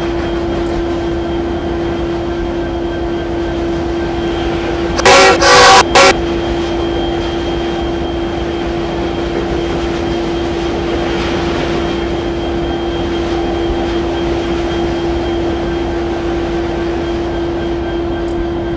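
CPKC train running with a steady drone, and its locomotive horn blowing one loud blast about five seconds in, followed by a brief second toot.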